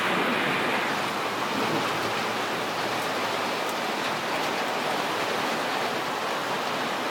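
Rain falling in a steady hiss, with a few faint ticks.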